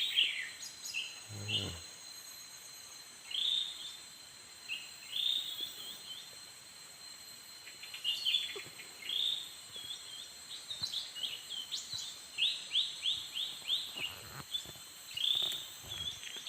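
Small birds chirping: short high calls scattered throughout, with a quick run of repeated calls about twelve seconds in.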